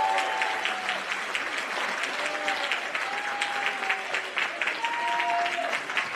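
Audience applauding steadily after the music has ended.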